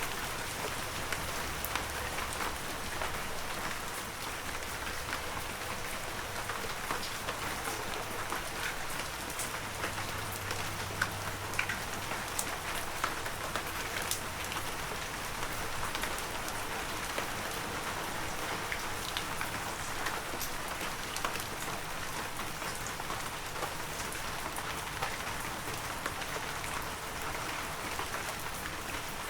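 Steady heavy rain falling, with scattered close drops ticking out of the hiss.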